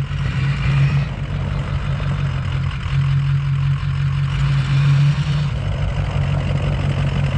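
Pickup truck engine running steadily as the truck backs a trailer, a little louder for a couple of seconds midway.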